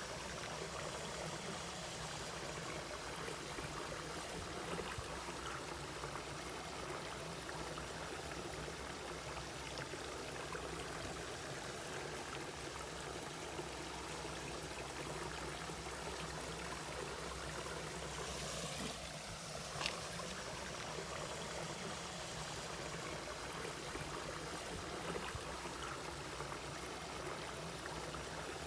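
Mountain valley stream flowing steadily over rocks, with a few brief sharp sounds; the clearest comes about two-thirds of the way in.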